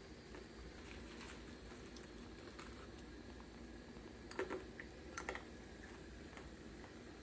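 A child chewing a bite of dry, uncooked Chapagetti instant noodles: faint crisp crunches, with two louder bursts of crunching about four and five seconds in.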